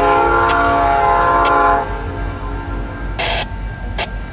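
Horn of a CN EMD SD70 freight locomotive sounding a loud chord of several tones, which cuts off about two seconds in. The low rumble of the locomotives runs underneath, with a few sharp clicks and a short hiss about three seconds in.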